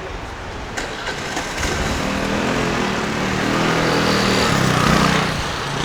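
A motor vehicle's engine passing close by on a city street, growing louder over a few seconds and then falling away, over steady traffic noise.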